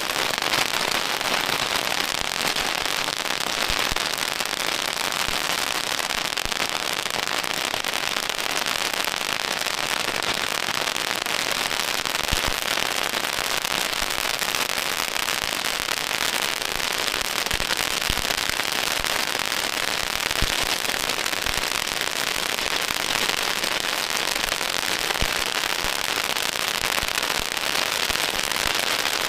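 Strings of firecrackers going off in a continuous dense crackle of rapid pops, with a few sharper bangs standing out now and then.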